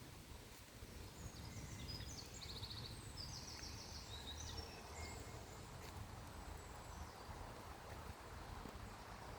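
A songbird singing faintly: a phrase of quick high chirps and rapid trills from about a second in to about halfway through, over a steady low background hum of outdoor ambience.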